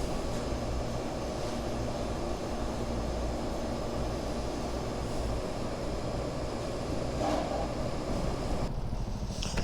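A steady low rumble and hiss with a faint steady hum, with no single event standing out.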